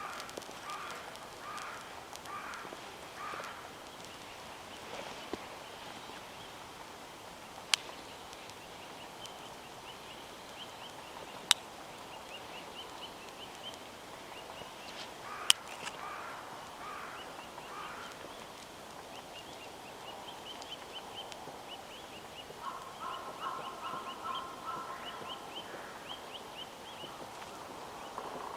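Birds calling in short repeated notes, with a fast run of high chirps through much of it. Three sharp snaps, the loudest sounds, come from the wood fire popping.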